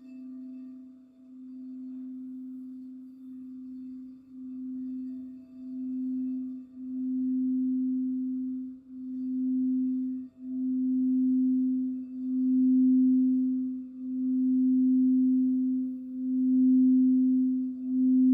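Crystal singing bowl ringing with one low sustained tone and faint higher overtones. The tone swells and dips about every one to two seconds and grows steadily louder.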